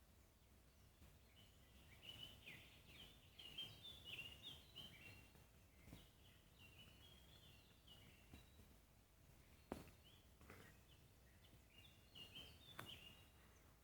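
Faint birdsong: a songbird singing quick, high chirping phrases in two spells, early and again near the end, over a low background hiss. A sharp click sounds about ten seconds in and another near the end.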